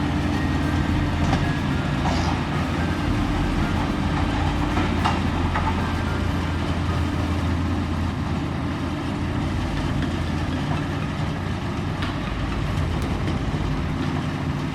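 Large diesel engine running at a steady speed, a deep even rumble with a few faint clicks over it.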